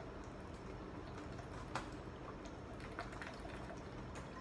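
Quiet room tone: a low steady hum with a few faint, short clicks, one a little under two seconds in and another about three seconds in.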